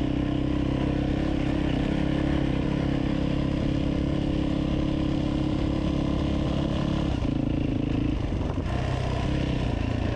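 Motorcycle engine running at a steady cruising pace on a rough track. Its note drops and roughens briefly about eight seconds in, then picks up again.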